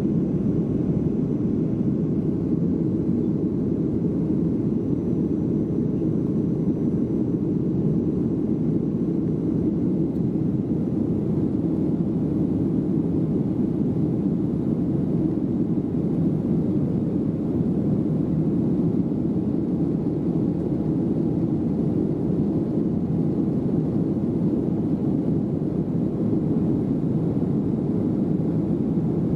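Steady engine and airflow noise heard inside an airliner's cabin in flight, an even low rumble that stays the same throughout.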